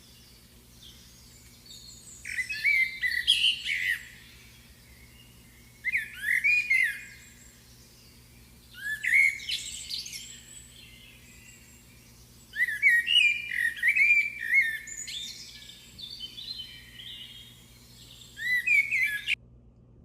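Bird song: phrases of quick, sliding chirps and trills, with pauses of a second or two between them, over a faint steady low hum. The song cuts off suddenly near the end.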